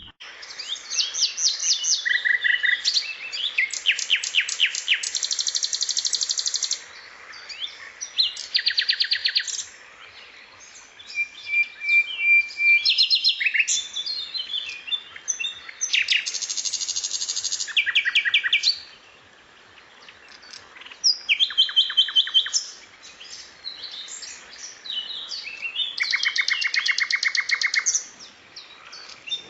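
Recorded songbird song: bursts of rapid, high chirping trills and short whistles, one after another with brief pauses between them.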